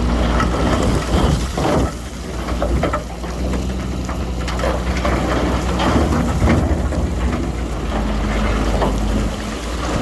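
The diesel engine of a bulldozer or dump truck runs steadily under many irregular sharp clatters, typical of rock and gravel rattling and tumbling as it is dumped or pushed.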